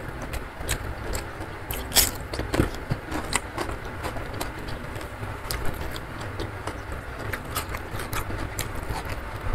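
Close-miked chewing of a mouthful of rice and spicy stir-fried beef eaten by hand, with irregular wet clicks and smacks, over a steady low rumble.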